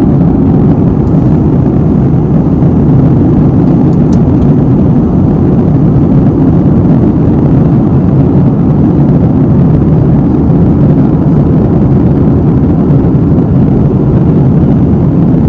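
Airliner cabin noise in flight: a steady, even low rumble of engine and airflow noise.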